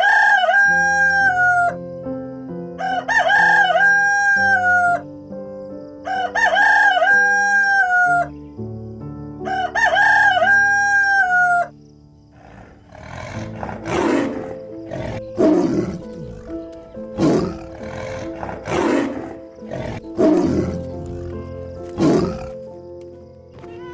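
A rooster crows four times, about three seconds apart, over background music. In the second half come six harsh, raspy animal calls about a second and a half apart, from a source that cannot be identified.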